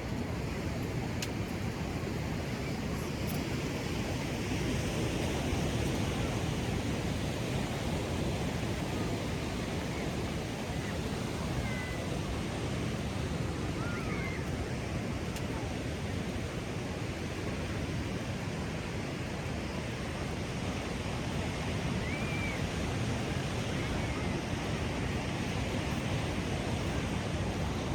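Ocean surf breaking in a steady wash of noise that swells and eases slowly. A few faint short high chirps come through over it.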